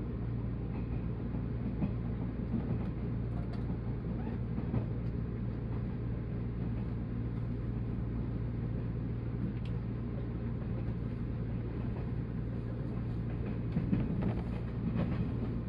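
Steady low rumble and hum inside a 185 series electric train car.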